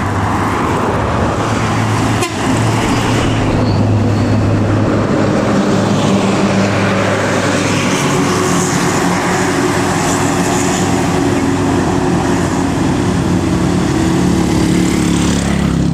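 Heavy diesel road vehicles passing at speed close by: loud engine drone with road and tyre roar that goes on without a break.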